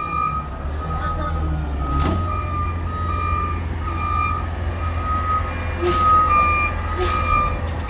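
Garbage truck's backup alarm beeping over and over while its diesel engine runs underneath, the engine growing louder about two seconds in. A few sharp knocks come through at the same time.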